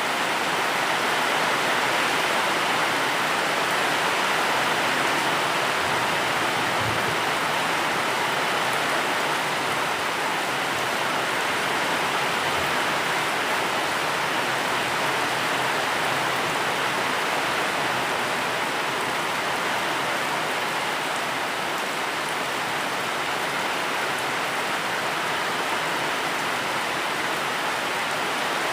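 Steady rain falling, a dense even hiss of drops with no change in strength.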